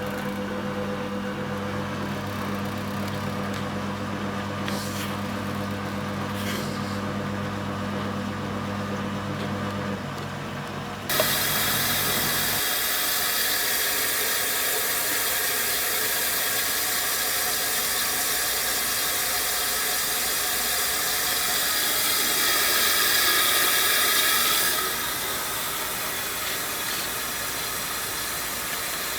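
1974 Zoppas Superautomatic 242 washing machine: a pump motor hums steadily for about ten seconds and stops. Then, about eleven seconds in, a click and a loud, even rushing hiss of water begins, typical of the inlet valve opening to fill the drum.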